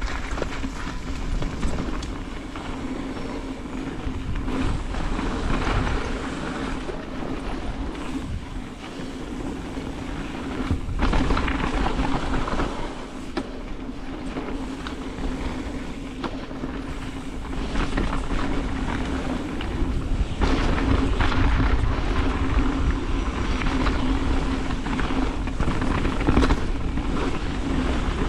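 Carbon Ibis Ripmo mountain bike descending a downhill race course at speed: wind rushing over the camera microphone, with the tyres rolling and the bike rattling over rough dirt.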